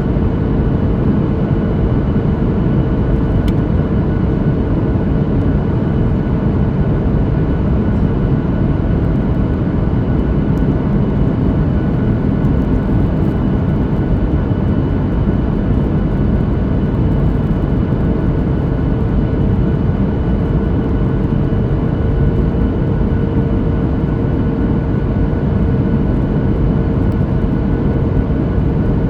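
Steady cabin noise inside a Boeing 737-9 MAX in flight: the rush of airflow over the fuselage and the drone of its CFM LEAP-1B engines, with a steady hum running through it.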